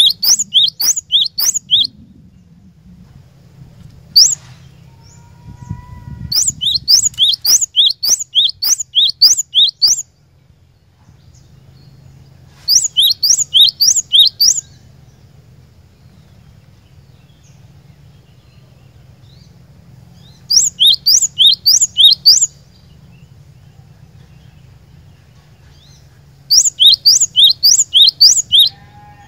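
Cinereous tit (glatik batu) singing: five bursts of quick, repeated high notes that each slide downward, about six to twelve notes per burst, with pauses of several seconds between bursts.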